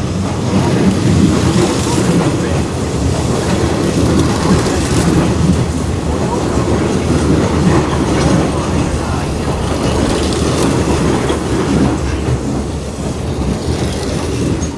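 Hanshin Railway electric train running along the track at the station: a loud, steady rumble with the clickety-clack of wheels over rail joints, easing slightly near the end.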